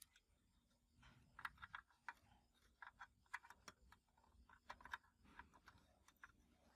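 Faint, irregular light clicks and taps of small hard parts or tools being handled on a workbench, starting about a second in.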